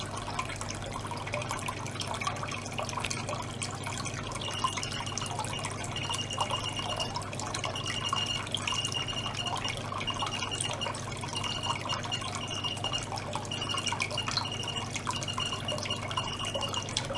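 Water circulated by a small pump, dripping and trickling in a tank over a steady low hum. From about four seconds in, a high-pitched tone sounds on and off in short stretches.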